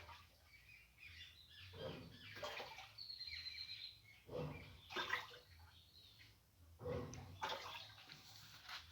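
Easy washing machine agitating its water, a swish about every two and a half seconds with a low motor hum under each stroke.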